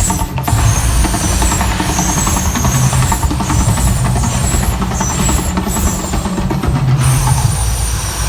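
Loud, steady deep rumble of an outdoor volcano attraction's eruption effect, with music over it.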